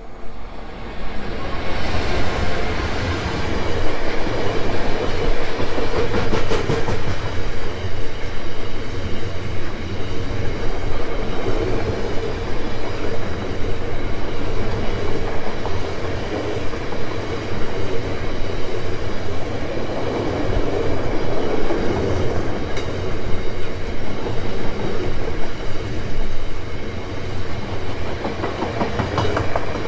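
A diesel freight locomotive passes close by about a second in, followed by a long rake of biomass hopper wagons rolling past with a steady rumble and rhythmic wheel clatter.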